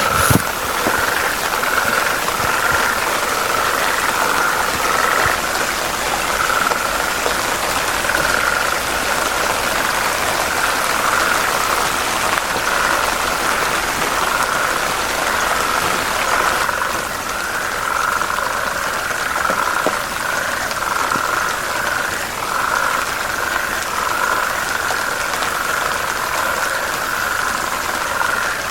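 A chorus of frogs calling steadily near a river, their calls running together into a continuous pulsing trill at one pitch over a steady hiss. A second, slightly lower-pitched layer of calls joins about halfway through.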